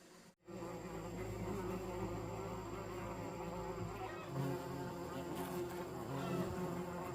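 Steady buzzing of a flying insect, its pitch wavering slightly; it starts abruptly about half a second in.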